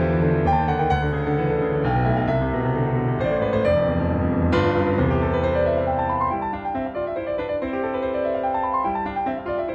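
Background piano music: a keyboard piece with notes in rising and falling runs.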